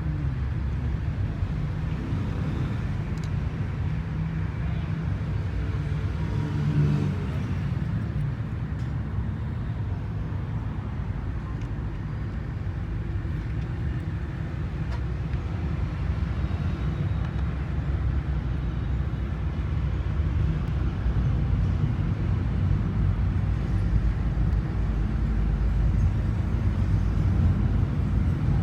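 Steady low mechanical rumble that grows slightly louder toward the end.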